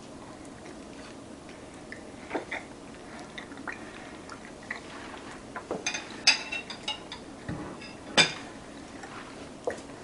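Quiet chewing of a bite of apple pie, with scattered short clicks and a few sharper ones about six and eight seconds in.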